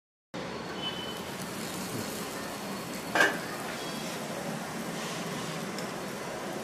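Rava appe cooking in an appe pan on a gas stove, with a steady sizzle and hiss. About three seconds in there is a single sharp metallic clink as the stainless-steel lid is lifted off the pan.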